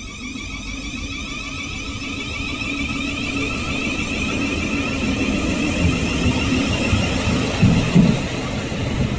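A train approaching and growing steadily louder, with a high steady whine over its rumble. Near the end the wheels start knocking rhythmically over the rail joints.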